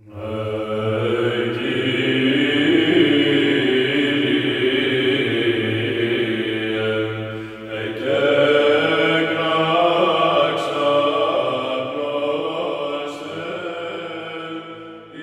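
Chanting voices over a held low note, a sustained musical interlude. It dips briefly about eight seconds in.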